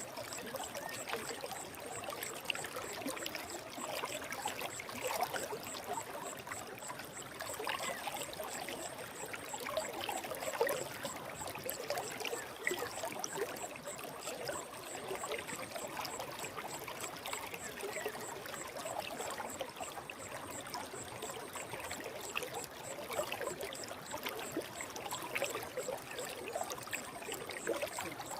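Forest stream flowing: a steady babble of trickling, splashing water.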